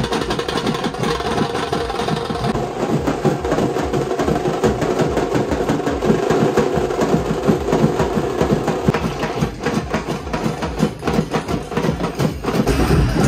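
Loud music blaring from a large street DJ sound system, with a dense, fast beat.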